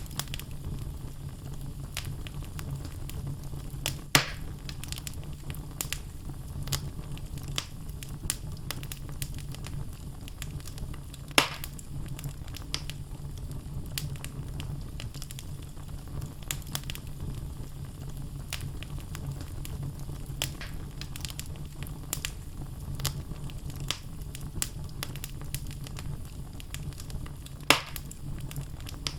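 Wood fire burning in a fireplace, logs crackling with frequent small snaps over a steady low rumble of the flames. Three louder pops stand out, about four seconds in, near the middle and near the end.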